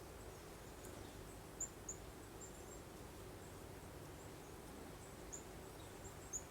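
Soft steady breeze hiss with small birds chirping faintly: short high chirps scattered through, a couple of louder ones about one and a half seconds in and another near the end.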